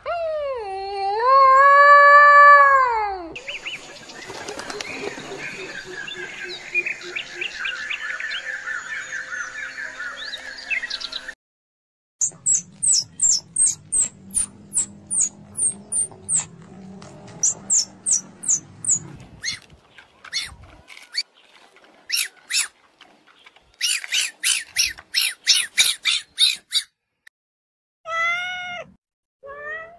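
A run of separate animal recordings: a dog howling, which stops a little over 3 s in, then birds chirping and tweeting in quick runs of high notes, then a cat meowing near the end.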